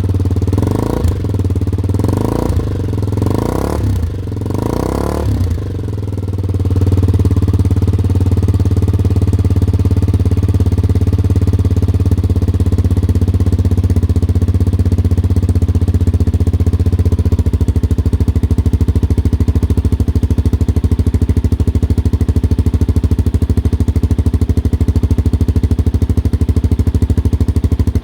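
Honda XR250 Motard's single-cylinder four-stroke engine running through a Delta Barrel 4 aftermarket muffler. It is blipped about four times in the first five seconds, then settles into a steady idle.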